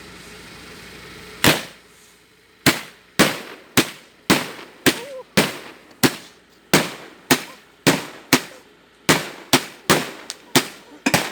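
A long series of single gunshots, likely blank rounds, starting about a second and a half in and going on at roughly two shots a second, slightly irregular, each with a short echoing tail.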